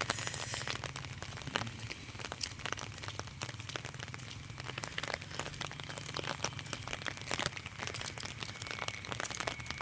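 Light drizzle: a dense, irregular patter of small sharp raindrop ticks close to the microphone, over a low steady hum.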